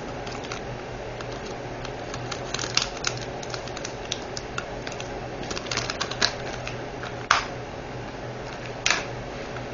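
Scattered small plastic clicks and taps from handling diamond painting drill containers and drill bags, coming in small clusters, with two sharper clicks near the end, over a steady low hum.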